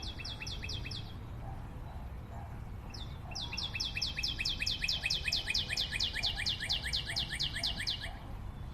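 A bird singing a rapid trill of high, downward-slurred chirps, about seven a second: a short burst at the start, then a longer run of about five seconds, over a low background hum.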